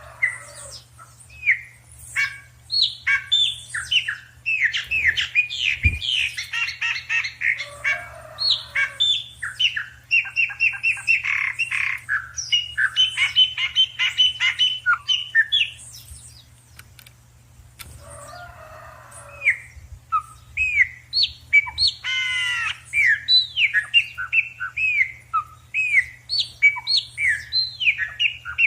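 A mixed group of birds calling and chirping together, with many short sliding chirps, squawks and fast runs of repeated notes overlapping. There is a quieter lull a little past the middle, after which the chirping picks up again.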